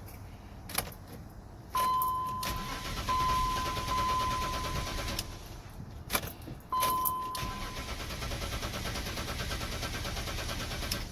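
BMW X5 3.0i's inline-six being cranked by the starter in two attempts, each opening with a steady high whine, and not catching and running properly; the owner suspects it has run out of fuel.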